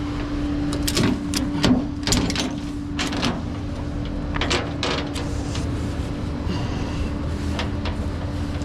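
A vehicle engine runs with a steady hum, while a series of sharp metallic clicks and clacks comes over it, clustered in the first five seconds and again near the end.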